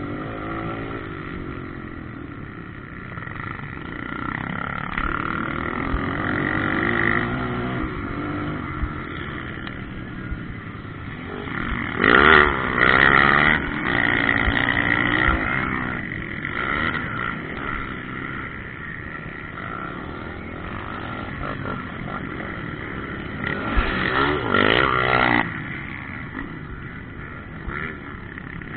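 Motocross bikes running on a dirt track, their engines revving up and falling back as they go. Two bikes or groups pass louder and closer, once a little before halfway and again late on.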